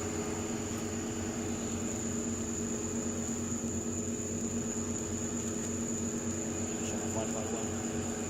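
Steady hum of an idling vehicle, holding several constant low tones, with a thin high whine over it throughout.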